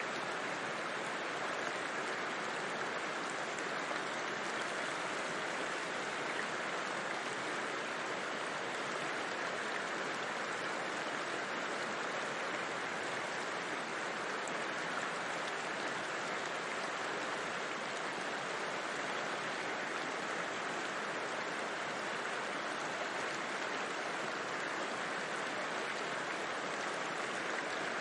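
River water flowing, a steady even rush without pauses or distinct splashes.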